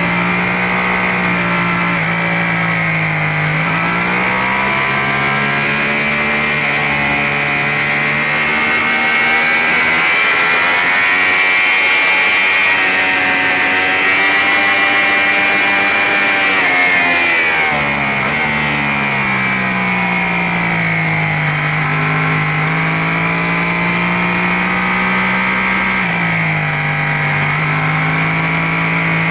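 Sportbike engine heard from a camera mounted on the bike at track speed, its pitch rising and falling with the throttle. It climbs on a straight in third gear, drops sharply about 18 s in as the rider brakes and shifts down to second, and rises again near the end. Wind rush is stronger at the highest speed.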